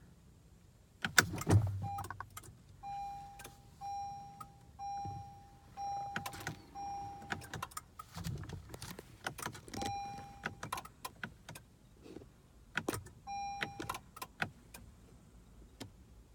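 Car warning chime from a 2015 Acura TLX that won't crank: a run of short, identical beeps about once a second, then single beeps later on, mixed with scattered clicks and knocks and one louder knock about a second in. The owner thinks the beeping comes from trying to start the car with the driver door open.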